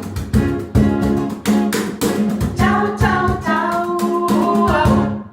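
A song with a strummed acoustic guitar keeping a steady rhythm and a voice singing over it. It cuts off suddenly near the end.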